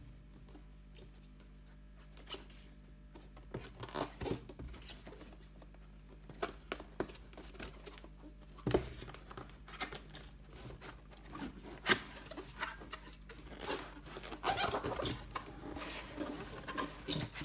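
Cardboard box being opened and its packaging handled by hand: scattered taps, clicks and light rustling. There is a sharper knock about nine seconds in, another near twelve seconds, and a busier spell of handling near the end.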